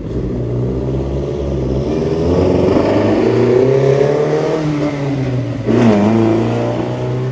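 A car engine accelerating, its pitch climbing for a few seconds and then dropping, with a sudden louder rev about six seconds in.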